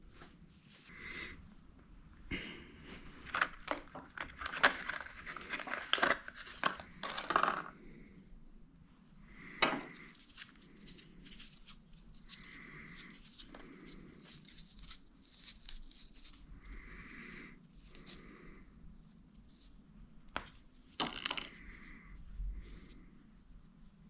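PTFE thread tape being pulled off its roll, wrapped around a fitting's threads and torn off: crinkling and tearing, busiest in the first third, with a sharp click about ten seconds in and a few quieter rustles after.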